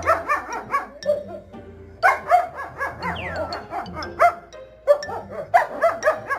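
Dog yipping and barking in quick, high-pitched runs of short calls, several a second, with brief pauses between the runs. It is answering an offer of an outing. Background music runs underneath.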